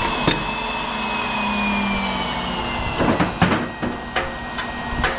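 Transformer-cracking machine bearing down on a welded HID light ballast transformer: a steady mechanical whine with high squealing tones that sag slowly in pitch, then from about three seconds in a run of sharp cracks and knocks as the welds give way, the loudest at the very end.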